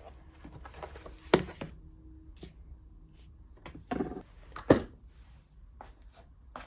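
Things being handled: soft rustling and three sharp knocks, one about a second in and two close together around four to five seconds in, the last the loudest.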